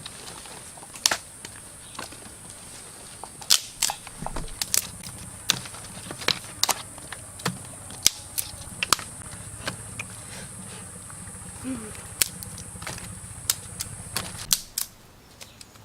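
Irregular sharp cracks and snaps, about one or two a second, over a steady high-pitched drone that stops near the end.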